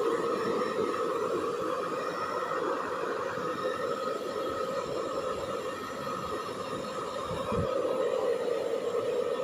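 Hair dryer running steadily, a continuous blowing hum with a constant pitch.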